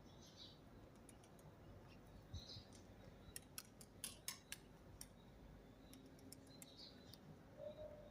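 A few faint, short bird chirps, with a quick cluster of sharp clicks and ticks in the middle that are louder than the calls.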